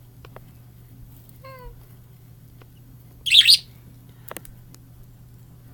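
A budgerigar gives a short, loud, harsh chirp about three seconds in, after a faint brief call about halfway to it. A low steady hum runs underneath.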